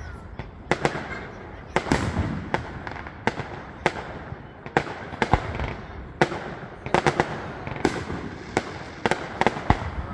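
Fireworks going off in a rapid, uneven string of sharp bangs, with rumbling and crackle between them.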